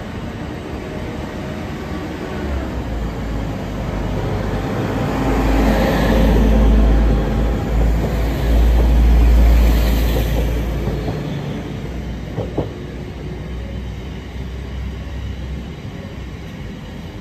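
A long train of loaded biomass hopper wagons rolling past, with steady wheel-on-rail rumble and clatter. About four seconds in, a passenger multiple unit passes close on the near line, loudest at around six to ten seconds in, then fading. A single sharp click comes about twelve seconds in.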